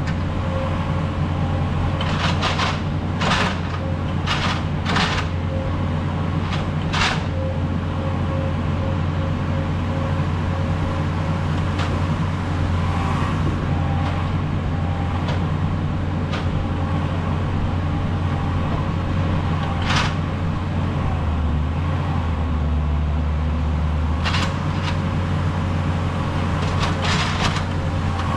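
Skid steer engine running steadily, with scattered sharp clanks and knocks from the machine working.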